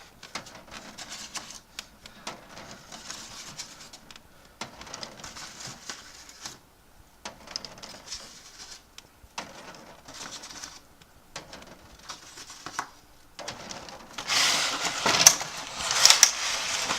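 Eggs being handled and set into a small plastic egg incubator: scattered soft clicks and knocks of shells against plastic. About fourteen seconds in comes a louder stretch of rustling and scraping.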